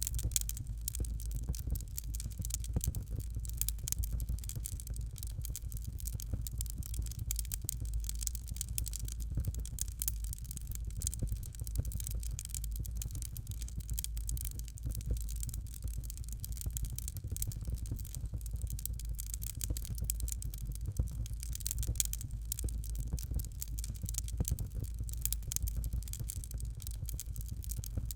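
Fireplace fire crackling: dense, irregular small pops and snaps over a steady low rumble.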